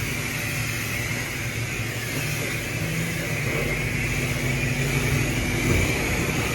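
Self-serve car wash high-pressure wand spraying water onto a truck, a steady hiss over a constant low pump hum.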